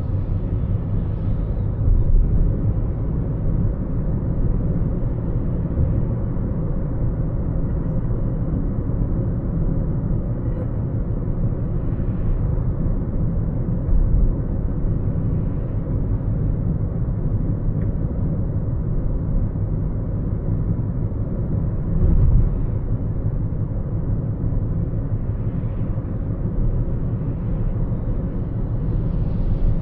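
A car driving: a steady low rumble of tyres and engine, with a few brief louder jolts from bumps in the road.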